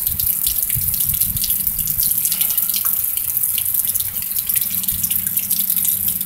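Heavy thunderstorm rain pouring: a steady hiss with drops splattering and dripping close by, and a low rumble about a second in.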